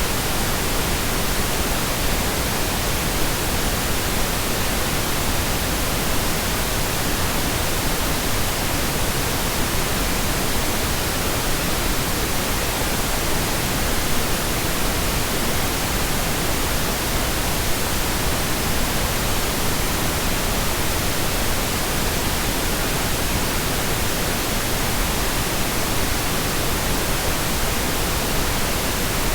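Steady pink noise: an even, unchanging hiss across the whole range, without breaks or events.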